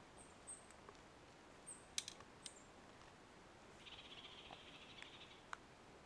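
Quiet outdoor ambience with faint, high, short chirps of small forest birds in the first two and a half seconds. A sharp click comes about two seconds in, and a buzzy trill lasting just over a second starts about four seconds in.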